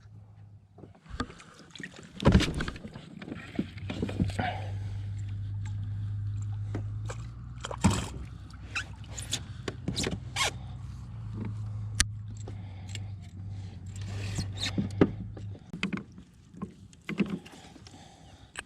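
Knocks, clicks and small splashes of a caught bass and fishing gear being handled on a kayak. A steady low hum runs through the middle, starting about four seconds in and stopping about three seconds before the end.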